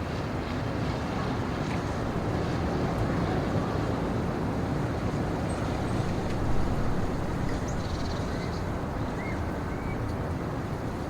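Steady low rumbling wind through a forest, with a few faint high chirps about nine to ten seconds in.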